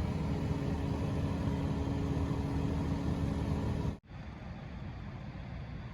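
Steady engine hum with a low droning tone, consistent with a vehicle idling. It cuts off abruptly about four seconds in, leaving a quieter, even rumble.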